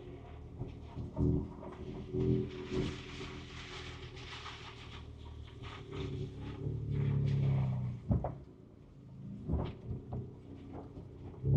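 Inside the cab of a 2024 Ford Ranger Raptor, its twin-turbo V6 running at low speed on a rough trail, with repeated knocks and clunks as the truck jolts over the ground. The engine swells louder for about a second around seven seconds in.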